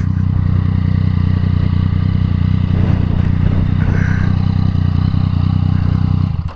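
Yamaha MT-09's three-cylinder engine with an Akrapovič exhaust running at a steady, unchanging engine speed, loud and deep. It stops abruptly near the end.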